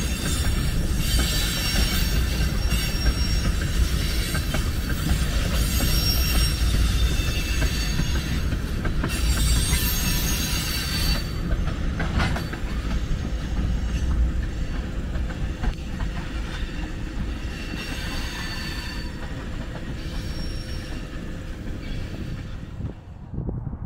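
Freight train of tank cars rolling past: steel wheels rumbling on the rails with high-pitched wheel squeal, strongest in the first half and fading after about eleven seconds. The sound drops away near the end.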